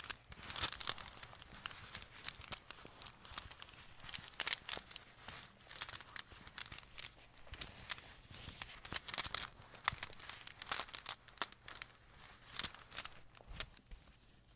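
Rune pieces clicking against each other and a small bag crinkling, close to the microphone, as the runes are moved from one bag into another. Irregular clicks and rustles, easing off near the end.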